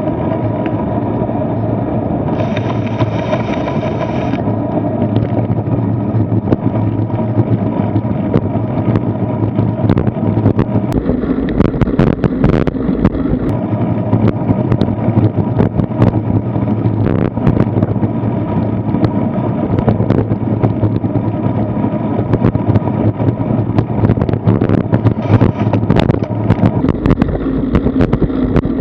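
Continuous wind and road rumble picked up by a bike-mounted action camera while cycling, with many sharp clicks and rattles from about ten seconds in. A brief hiss comes in about three seconds in.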